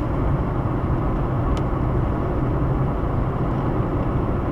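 Steady road noise of a car being driven, heard from inside the cabin: a low, even engine and tyre rumble, with one short tick about a second and a half in.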